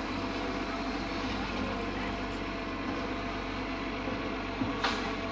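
Garbage truck diesel engine running steadily at low revs, with a short hiss about five seconds in.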